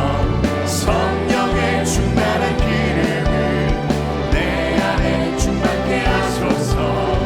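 Live worship band playing a contemporary praise song, with singing over bass and a steady drum beat.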